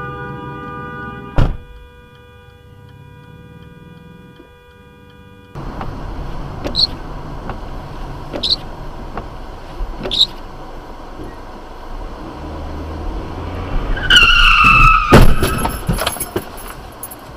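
Car tyres squealing in a skid with a falling pitch, then a loud crash impact about fifteen seconds in. Before that, a sharp knock over a steady tone, then road noise with a short high chirp roughly every second and a half.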